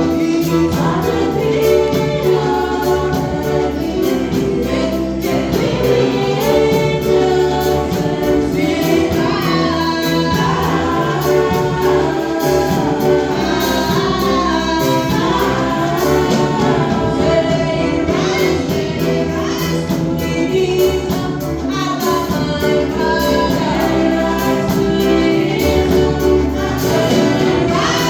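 Gospel worship song with a choir singing over a steady instrumental backing.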